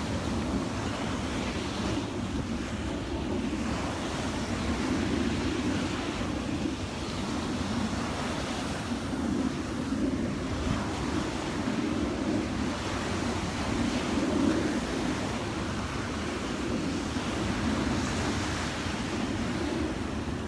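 Surf washing onto a sand beach, the wash swelling and easing every few seconds, with wind buffeting the microphone.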